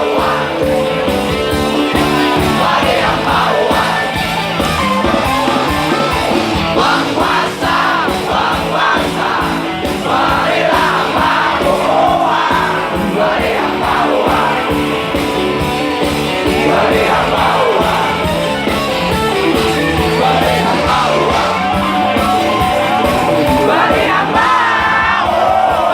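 Live rock band music at a concert, with singing and crowd voices over the band.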